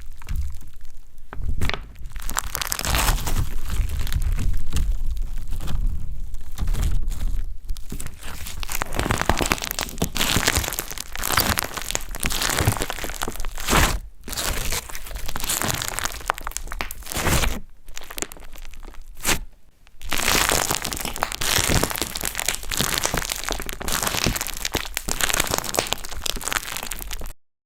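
Slime being squished, pressed and stretched by hand, giving a dense run of crackling, popping and crunching sounds that cuts off suddenly near the end.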